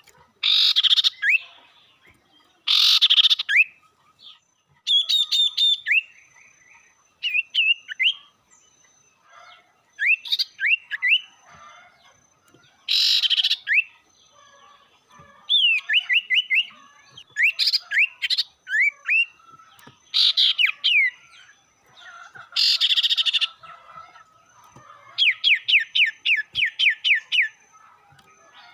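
Sirtu bird lure song: harsh scolding calls alternate with quick runs of sharp whistled notes, in phrases a second or two apart.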